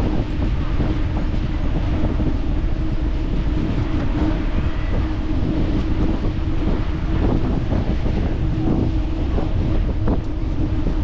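Wind rushing over the microphone on a moving bicycle, a steady low rumble with a constant hum running under it.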